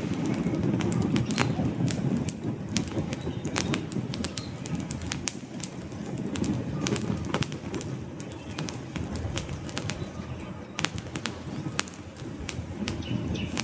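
Wood fire crackling, with frequent sharp pops and snaps over a low rumble of burning logs that swells and eases.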